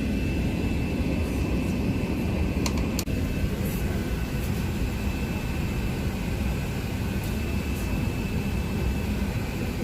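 Steady cabin noise inside an Airbus A380-800 airliner: a low, even rumble of engines and airflow with a faint steady whine. A couple of brief clicks come about three seconds in.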